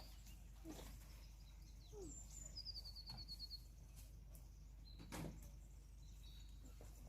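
Faint birdsong over quiet background: a quick run of about eight high notes about three seconds in, with a few scattered chirps. A soft knock comes about five seconds in.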